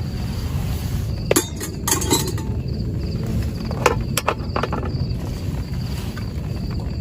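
Several short clinks and knocks, a few in quick succession, over a steady low rumble, with a faint pulsing insect chirp.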